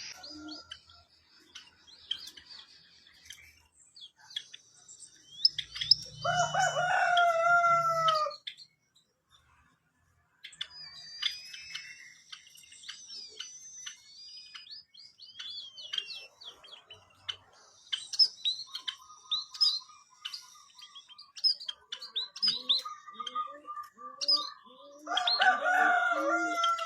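White-headed munia singing: rapid, thin, high-pitched chirps and whistles. Twice, about six seconds in and near the end, a louder, lower, drawn-out call of another bird breaks in.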